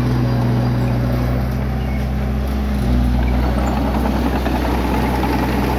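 Bulldozer's diesel engine running steadily, its note shifting slightly about halfway through.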